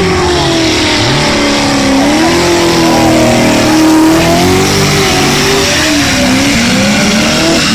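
BMW E21's V8 engine revving hard during a drift and burnout, its pitch swinging up and down again and again as the throttle is worked. Under it runs the steady noise of the rear tyres spinning on the tarmac.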